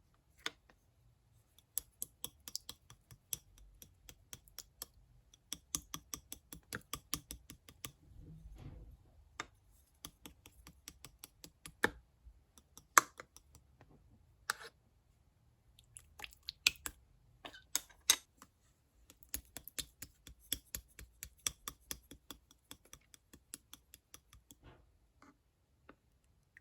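Clear slime being pressed and squished by hand, giving rapid, irregular clicking and popping sounds in clusters, with a few louder pops in the middle.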